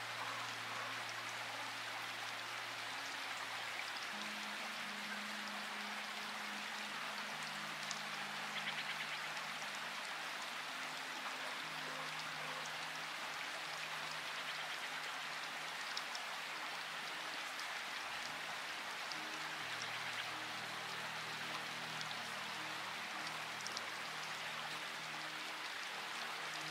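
Steady rain falling, with a few louder drops, under soft music of low held notes that shift every few seconds.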